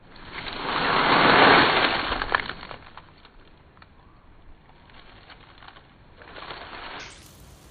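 Dry fallen autumn leaves being crunched: a loud crackling rush over the first two seconds or so, then softer scattered crackles and a smaller crunch near the end.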